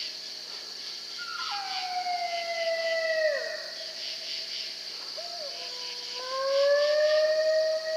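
Coyote howls: two long, drawn-out howls, the first sliding down in pitch at its end about three seconds in, the second rising and held through the last seconds. Insects chirr steadily underneath.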